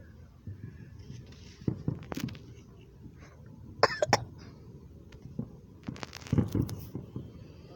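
Fireworks going off: several short, sharp bangs, the loudest a pair about four seconds in and another cluster about six seconds in.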